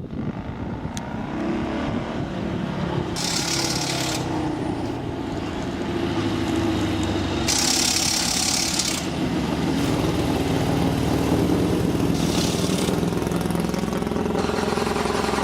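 Vintage race car engine running at a fairly steady speed, with several short bursts of hiss over it.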